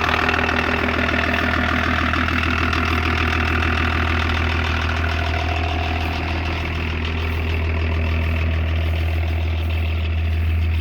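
BMW-built 2.4-litre straight-six turbo diesel of a 1984 Lincoln Continental idling steadily.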